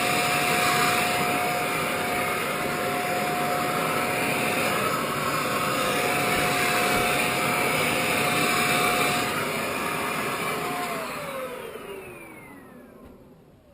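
Vacuum cleaner running steadily with a high whine, then switched off about eleven seconds in, its pitch falling as the motor winds down.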